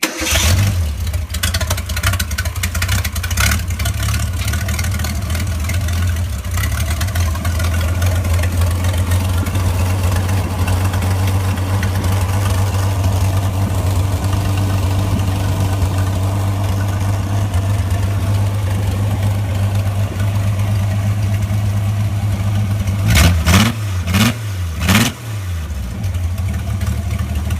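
1962 Ford 170 cubic-inch straight-six engine idling steadily. Near the end it is revved three times in quick succession, then settles back to idle.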